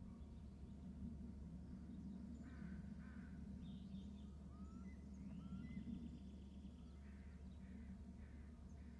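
Faint bird calls over a steady low hum: a few short harsh calls in pairs, a couple of quick rising chirps, and a longer chattering call in the middle.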